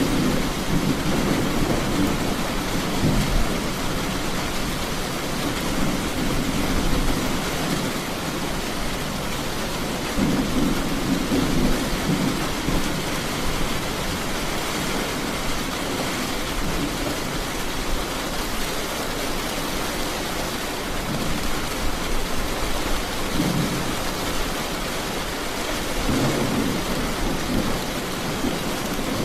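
Heavy rain falling steadily, with low rumbles of thunder swelling and fading several times.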